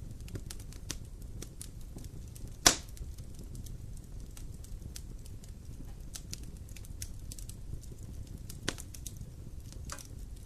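Campfire crackling: scattered small snaps over a steady low rumble, with one loud pop about two and a half seconds in and a smaller pop near nine seconds.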